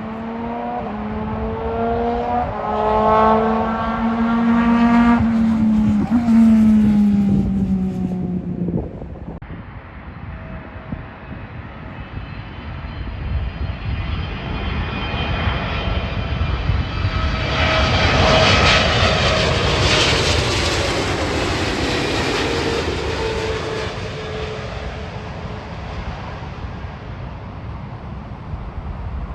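Jet airliner engines heard as aircraft pass: a loud engine sound with strong tones cuts off suddenly about nine seconds in, then a second jet swells up, peaks in the middle and fades with its tone slowly falling in pitch.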